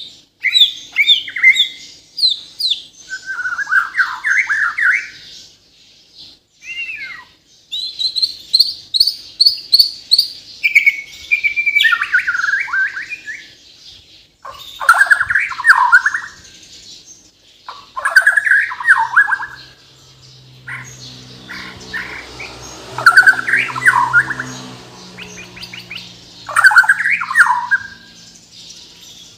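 White-rumped shama of the Bornean race singing loudly in full song: varied whistled phrases, trills and a run of quick repeated notes, with mimicked song fills among them, in bursts separated by short pauses. A low steady hum comes in during the second half.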